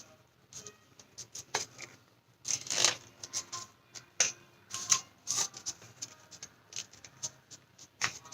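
Paper crinkling and rustling in irregular short crackles as a small origami model is folded and its corners tucked in by hand, with a denser run of crackles about two and a half seconds in.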